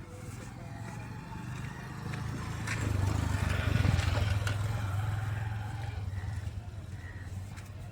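Truck engine running with a low, steady sound that grows louder to a peak about halfway through, then eases off.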